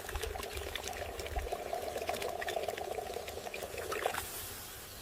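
Water pouring and splashing, with many small clicks through it; the sound changes about four seconds in.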